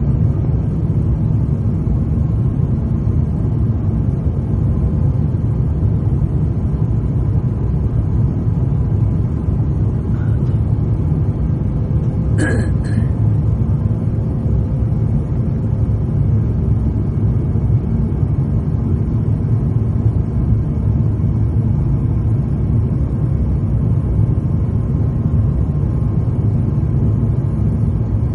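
Steady low rumble of an Airbus A350-900's Rolls-Royce Trent XWB engines and airflow, heard inside the cabin on approach, with a faint steady hum over it. A brief higher-pitched sound about twelve seconds in.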